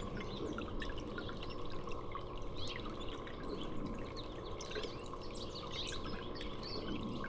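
Small songbirds chirping, many short high calls overlapping and getting busier in the second half, over a steady rushing background noise.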